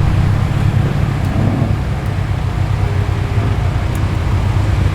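A car engine running steadily, a deep, even sound with no change in pitch.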